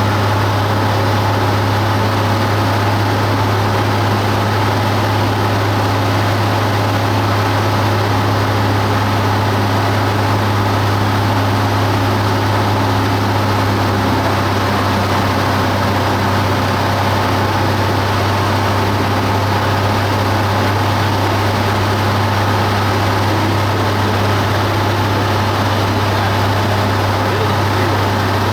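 Cessna 172 Skyhawk's piston engine and propeller running steadily: a constant low drone.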